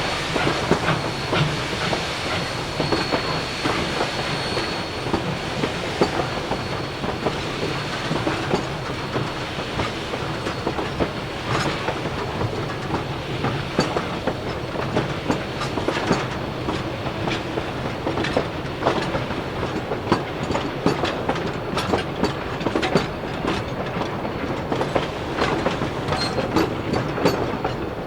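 Durango & Silverton narrow-gauge train rolling by: a steady run of wheel clicks and clanks over the rail joints. A faint high steady tone sounds in the first few seconds.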